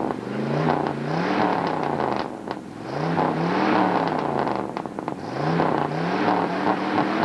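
Car engine revved three times, its pitch rising with each rev.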